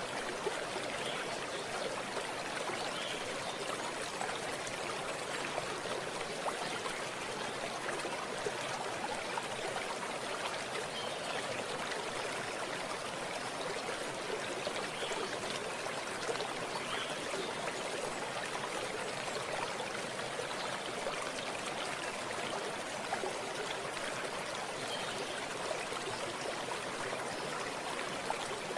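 Running water from a small stream: a steady, even wash of flowing and trickling water.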